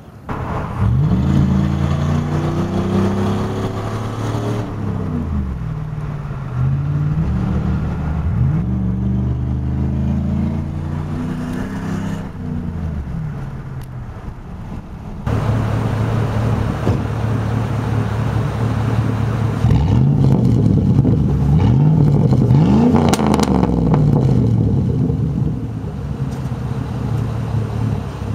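Straight-piped 2004 Chevrolet Silverado 5.3-litre V8, muffler removed, revved up and let fall back again and again with a steady idle between the revs.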